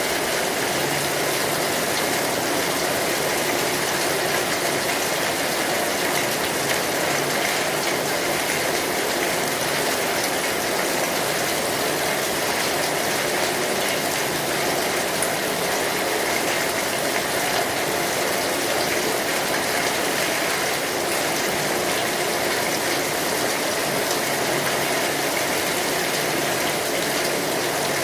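Steady rain falling on an umbrella overhead: a dense, even hiss of drops that holds without letup.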